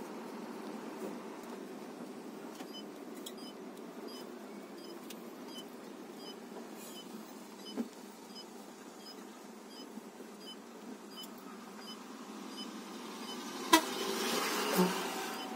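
Steady road traffic noise with faint, regular high ticks about twice a second. Near the end there is a sharp knock, then a vehicle passes, swelling and fading.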